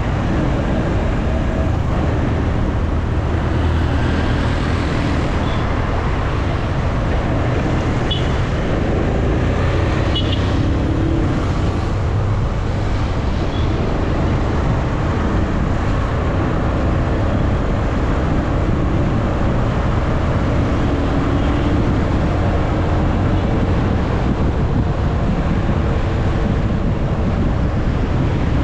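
Motorcycle engine running while riding, mixed with steady road noise; the engine note rises and falls gently as the revs change.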